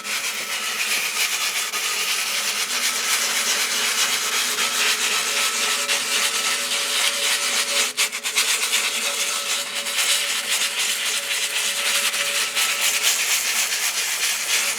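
Abrasive rubbing down of a motorcycle frame's chassis leg to prepare it for paint: a continuous scratchy rasp with a faint steady hum beneath it, breaking off briefly about eight seconds in.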